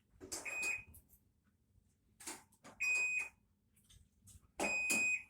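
Three short, high electronic beeps spaced about two seconds apart, each with a rattle of handling.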